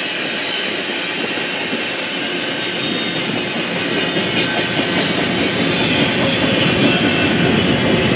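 Norfolk Southern freight train rolling past, its wheels clattering over the rail joints, growing louder about halfway through.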